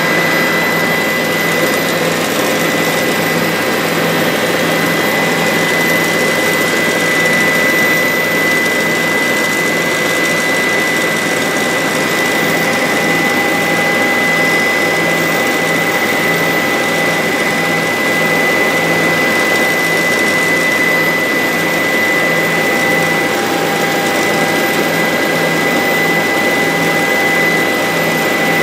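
Bell 407 helicopter in flight, heard from inside the cabin: a steady, loud mix of turbine whine and rotor noise with a fast pulsing beat underneath.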